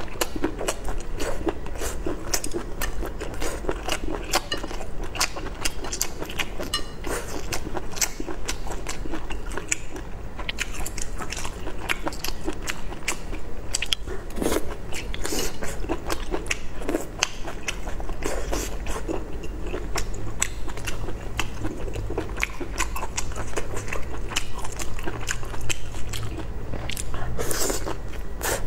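A person chewing whole small octopus close to a lapel microphone: a continuous run of short clicks and mouth sounds of biting and chewing.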